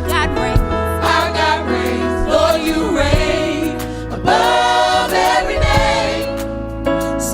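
Gospel choir singing a worship song over band accompaniment with a steady low bass, with a strong held note a bit over four seconds in.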